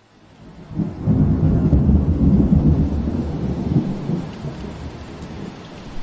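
Steady rain, fading back in from a brief silence, with a deep roll of thunder that swells about a second in and rumbles for a few seconds before dying away.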